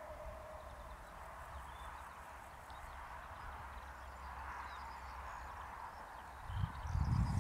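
DB class 628 diesel railcar approaching: faint engine and rail noise, swelling about six and a half seconds in into a much louder, pulsing low rumble of the wheels on the track as it nears.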